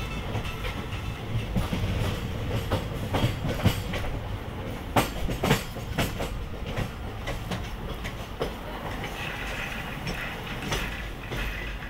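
Passenger train running along the track, heard from an open coach doorway: a steady rumble with the wheels clicking over the rails, and a few sharper clacks near the middle.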